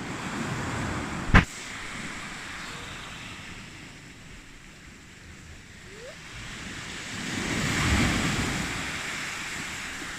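Surf breaking and washing on a beach, a rushing that swells to a peak about eight seconds in, with wind buffeting the microphone. A single sharp thump about a second and a half in.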